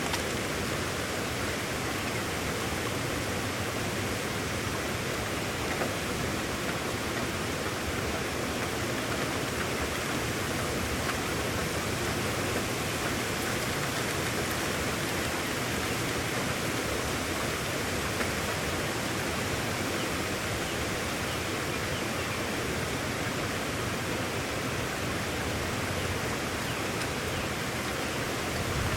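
Brisk rain storm: a steady, even hiss of heavy rain with no separate drops, thunder or changes.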